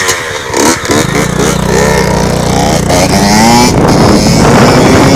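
Honda CR85 two-stroke dirt bike engine revving, its pitch rising in several blips, then running on at steady high revs near the end.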